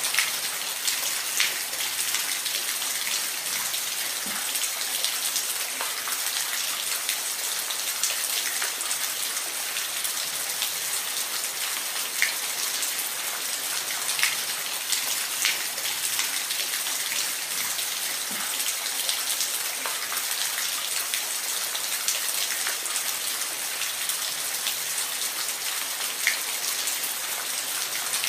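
Steady rain, an even hiss with individual drops ticking sharply every second or so.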